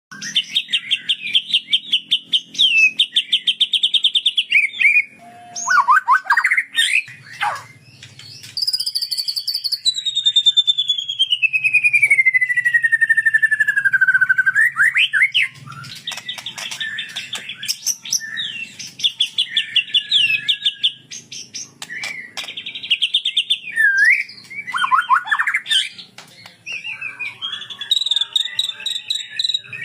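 Kapas tembak bulbul singing a long unbroken song of fast trills and quick rising slurs, with one long whistle falling slowly in pitch about nine to fifteen seconds in.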